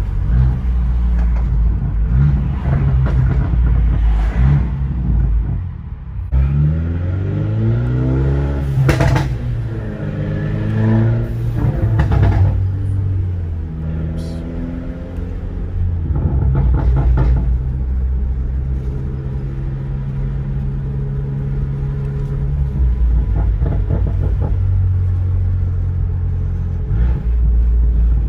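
Car engine and road rumble heard from inside the cabin while driving. The engine pitch climbs twice under acceleration, then settles into a steady drone at cruise.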